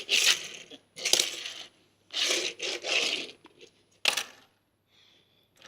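A small toy race car being handled on a hard surface, rattling and scraping in three short bursts, then a sharp click about four seconds in.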